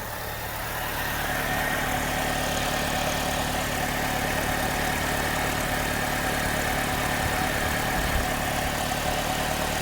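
2009 Pontiac G6 engine idling steadily with a new exhaust manifold fitted, a little louder after the first second or so. It is mostly quiet, but the owner thinks it almost sounds like a slight exhaust leak remains, perhaps from loose manifold bolts.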